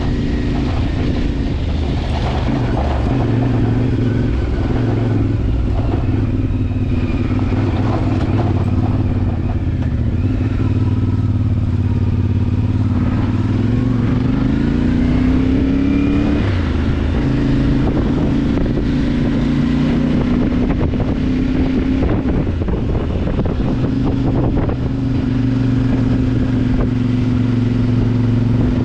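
CFMoto motorcycle engine running under way, steady, with the revs climbing about halfway through and then holding.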